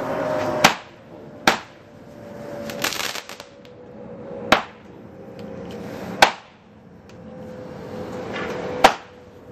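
Garden fireworks bursting: five sharp bangs, one to three seconds apart, over a hissing rush that swells before several of them.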